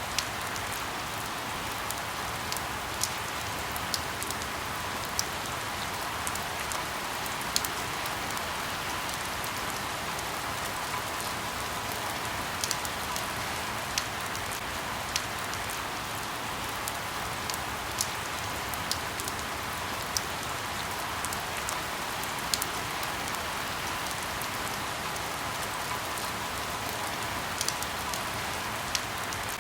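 Steady light rain pattering on leaves, a constant soft hiss with individual drops ticking sharply now and then, about one every second or two.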